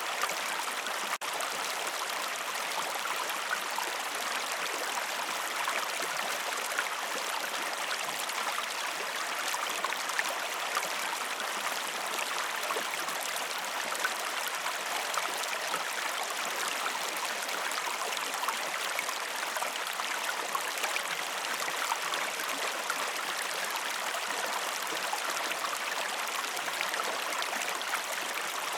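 A flowing river or stream, a steady rushing and babbling of water with many small splashes.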